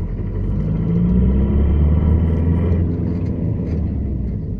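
Renault Laguna II's 1.9 dCi four-cylinder turbodiesel running under load, a steady low drone that strengthens about a second in and eases back just before three seconds. It is recorded to show extraneous noises that the engine makes under load.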